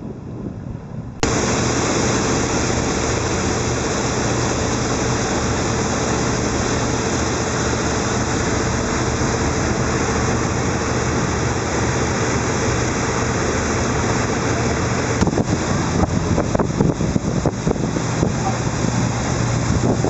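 Steady rush of water and wind over the low, even hum of a riverboat's engine, cutting in abruptly about a second in. In the last few seconds wind gusts buffet the microphone.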